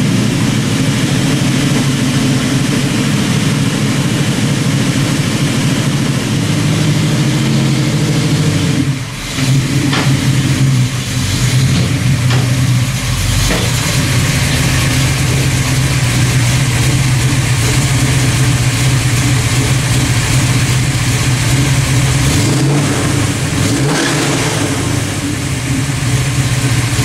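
1968 Chevrolet Camaro Rally Sport's engine running at low speed as the car creeps forward onto a lift, a steady low engine note with a short drop in level about nine seconds in and a few small rises and falls in pitch near the end.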